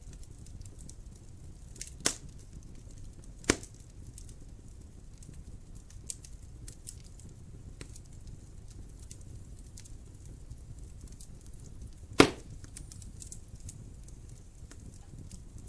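Wood fire in a fireplace crackling: a low steady rumble of flame with scattered faint ticks, and three sharp pops of the burning wood, about two, three and a half, and twelve seconds in, the last the loudest.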